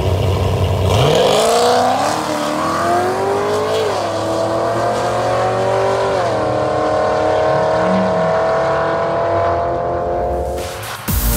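V8 car launching and accelerating hard, its engine note climbing in pitch and dipping briefly at each upshift, then holding a steady high drone.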